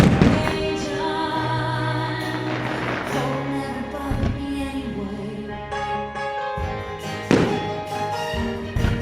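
Loudspeaker music with singing, the soundtrack of a fireworks display, over which firework shells burst with several sudden booms, the sharpest just after the start and about seven seconds in.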